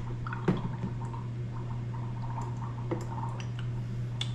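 Espresso machine's steam wand frothing almond milk in a pitcher as it is swirled: a steady machine hum with light bubbling and dripping, and a few short clicks.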